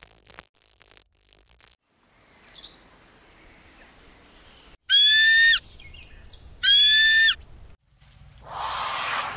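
Bird calls: two loud, drawn-out, high-pitched calls about a second and a half apart, after faint clicking at the start, with a stretch of hiss near the end.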